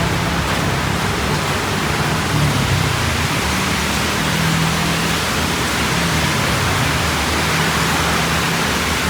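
Heavy rain falling, a steady even hiss, with a low hum underneath that comes and goes.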